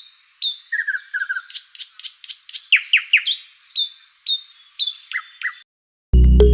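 Songbird chirping in quick repeated notes, short whistles and a few falling sweeps, stopping a little before the end. Music with a deep bass starts just before the end.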